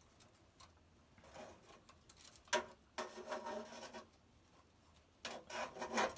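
A thermocouple probe being worked back through its hole in an electric kiln's wall: faint rubbing and scraping with a few sharp clicks, the loudest about two and a half seconds in and just before the end.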